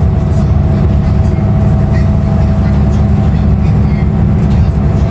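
Inside a 2016 Nova Bus LFS under way: its Cummins ISL9 diesel engine and road noise make a steady low drone, with a thin constant whine above it and a few light rattles.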